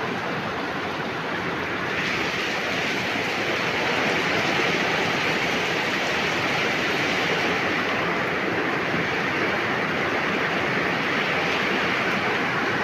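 Heavy rain pouring in a steady rush that grows louder and hissier about two seconds in.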